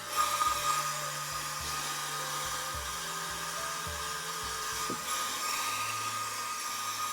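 Handheld electric hair dryer on its high heat setting, blowing steadily with a constant whine over the rush of air; it gets louder just after the start.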